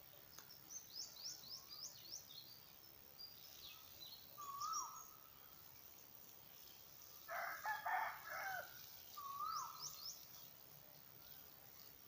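A rooster crows once, about seven seconds in, the loudest sound here. Around it, small birds chirp in quick high runs and another bird gives a short wavering call twice.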